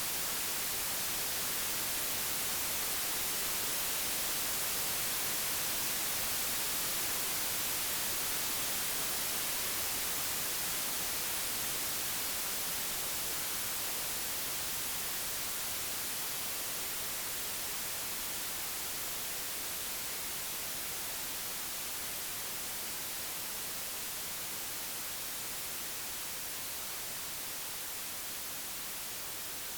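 Computer-generated white noise: a steady, even hiss, brightest in the highs, slowly easing a little in loudness over the stretch.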